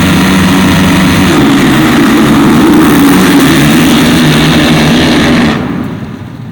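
Supercross dirt bike engines running hard at high revs, the pitch stepping as the throttle is worked. The sound drops off sharply about five and a half seconds in.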